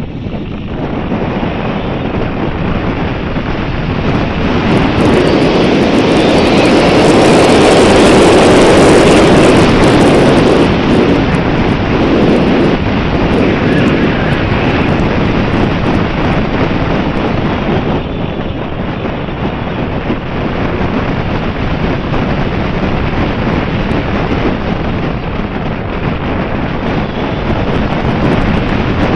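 Wind rushing and buffeting the microphone. It swells into a stronger gust about six to ten seconds in, then eases to a steady rush.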